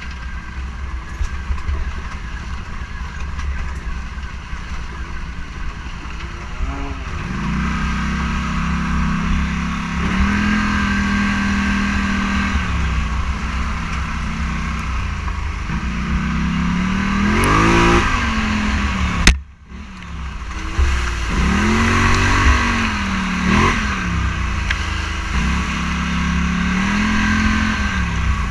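Scrambler motorcycle engine heard from the bike while riding, its revs rising and falling with throttle and gear changes, over heavy wind rumble on the microphone. About two-thirds of the way through, a sharp click is followed by a brief dropout of the sound.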